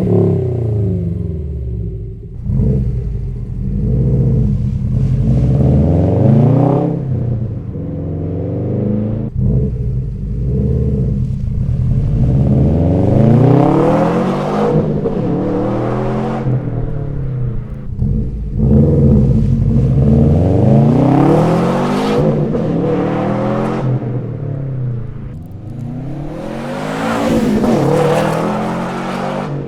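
2018 Subaru STI's turbocharged flat-four engine revving through an aftermarket exhaust: repeated revs, the pitch climbing and falling each time, in several takes joined with short cuts.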